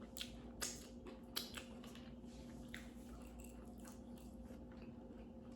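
Faint eating sounds: a few scattered crunches and clicks of someone biting and chewing a burger and fries, over a faint steady hum.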